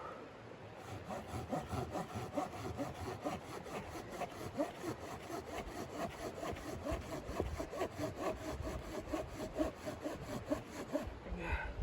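Hand saw cutting through wood in quick, even back-and-forth strokes, about four to five a second, starting about a second in and stopping near the end.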